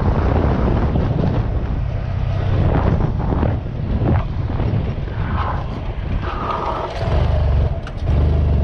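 Wind rumbling on a helmet-mounted camera's microphone while riding a Honda Grom, with the motorcycle's small single-cylinder engine running underneath.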